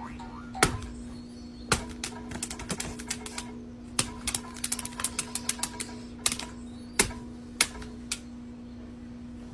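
Irregular series of sharp clicks and taps, a few louder knocks among them, over a steady low hum.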